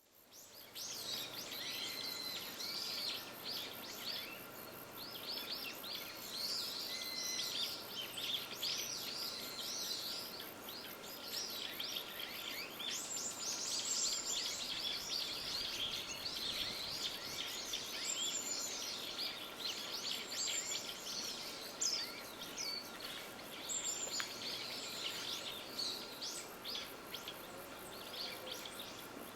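Several small birds chirping and calling over one another without pause, over a faint steady background hiss.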